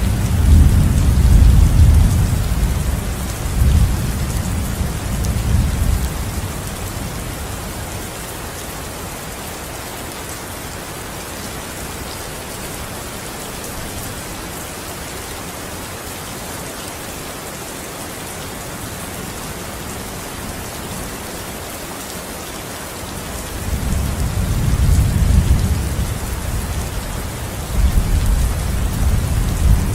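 Steady heavy rain hissing evenly. Deep rolling thunder rumbles over it for the first several seconds, and again from about three quarters of the way through.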